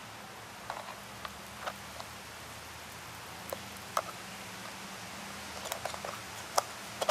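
Scattered light clicks and taps from hands and tools working at a cut-open oil filter, prying at a stuck inner part. The taps come closer together near the end, over a faint steady low hum.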